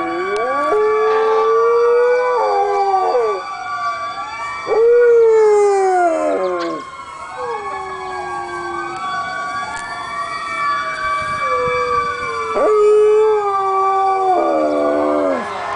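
A dog howling along with a fire truck siren: several long howls that hold a pitch and slide down at the end, over the siren's rising and falling wail.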